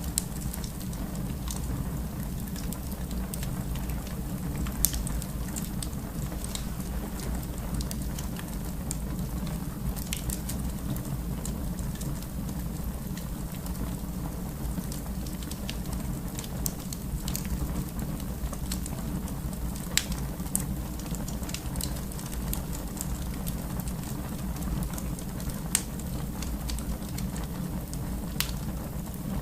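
Fire in a fireplace burning with a steady low rumble and irregular sharp crackles and pops, a handful of them louder than the rest.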